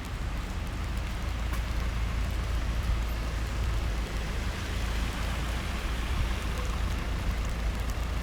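Steady rain hiss on a wet street, with a constant low rumble underneath that swells slightly midway.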